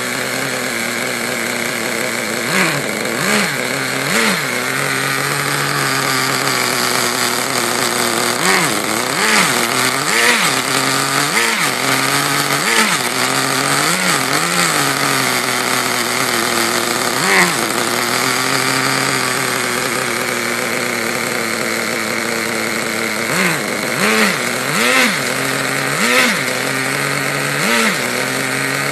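Small nitro (glow-fuel) engine of an HSP Backwash RC buggy running at a steady idle, with repeated short throttle blips whose pitch rises and falls back. About eight blips come in the first half and about five more near the end.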